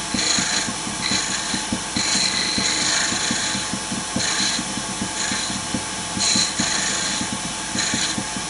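Wood lathe running with a steady hum while a turning tool makes light cuts in the spinning wood. The cuts come as about eight short hissing passes, each taking off a little material.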